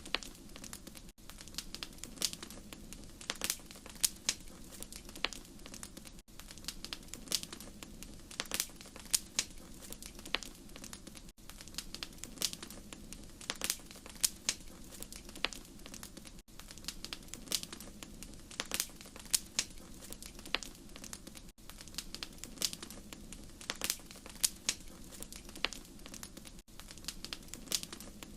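Wood fire crackling, with irregular sharp pops and snaps over a steady low rush of the flames.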